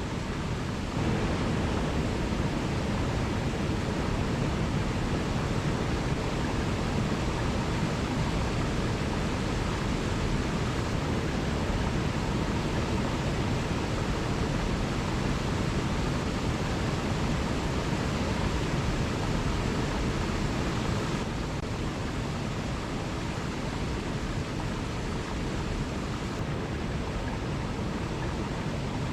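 Waterfall rushing, a steady even roar of falling water. It grows a little louder about a second in and eases slightly past the twenty-second mark.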